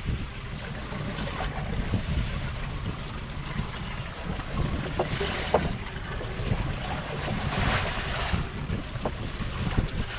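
Wind buffeting the microphone, a heavy low rumble, over the wash of sea water around a small fishing boat, with a few louder swells of splashing.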